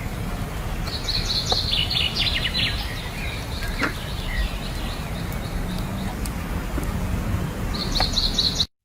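A bird singing: a quick run of high notes about a second in, and another short burst near the end, over a steady low rumble.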